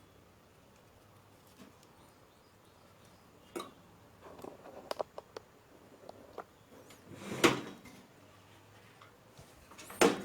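Quiet room tone, then a series of light clicks and taps from small parts and tools being handled on a workbench, with a louder clatter about seven and a half seconds in.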